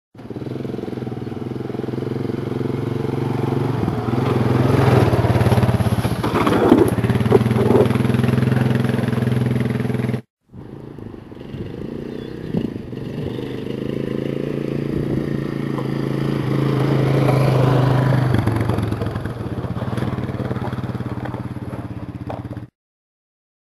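300cc Honda quad bike engine running under load as it tows, its note climbing and easing with the throttle, with a few sharp knocks over bumps. The sound cuts off briefly about ten seconds in and starts again, then stops near the end.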